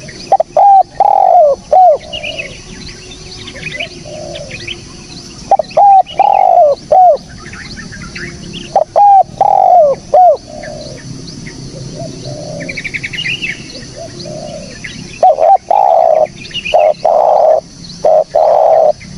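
Spotted dove cooing, the loud call phrase of a few short coos repeated four times, with small birds chirping faintly between the phrases.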